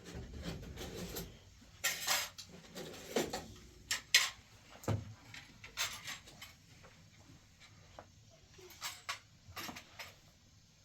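Dishes and utensils being handled: scattered, irregular knocks and clinks.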